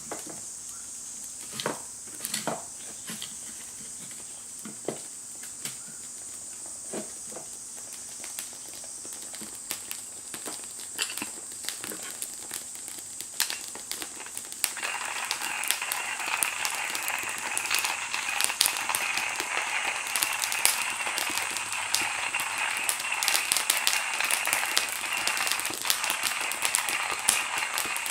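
Wood fire crackling and popping in a Firebox camp stove, with irregular sharp snaps. About halfway through, a steady hiss starts suddenly and carries on under the crackles.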